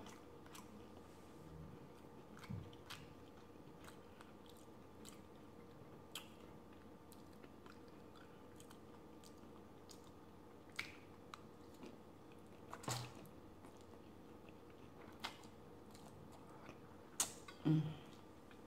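Faint close-miked chewing and mouth smacks of a person eating a forkful of garlic noodles, mostly quiet with scattered sharp clicks. A few louder clicks come near the end, as the fork is handled on the plate.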